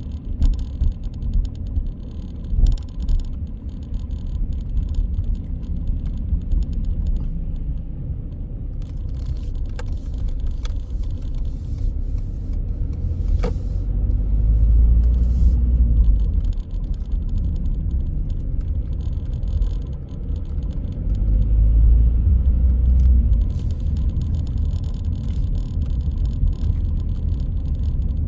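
Car driving on city streets: a steady low rumble of engine and tyre noise, with a few light clicks and rattles. The rumble swells twice, about halfway through and again about three-quarters of the way in.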